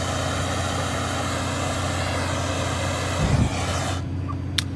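Propane fire-effect burner running with a steady rushing hiss that cuts off abruptly about four seconds in, over a steady low hum, with a short low thump just before it stops.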